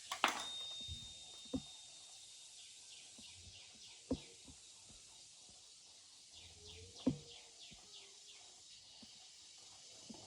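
Birds chirping over a steady background hiss, with one held high whistle early on. A few sharp knocks sound at intervals.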